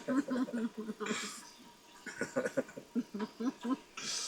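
People's voices, chuckling and murmuring in short bursts with breathy exhales.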